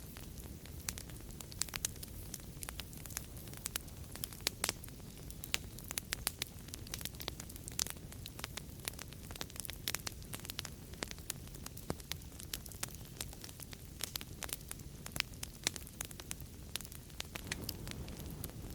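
Wood fire crackling in a fireplace: frequent irregular sharp pops and snaps over a steady low rush of flames.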